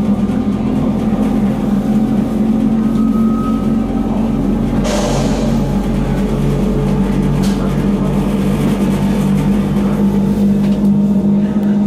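Electric rack-railway train running uphill, heard from inside the carriage: a steady motor and gear hum with rumble. Through the middle a low throb pulses about twice a second, and there is a brief rush of noise about five seconds in.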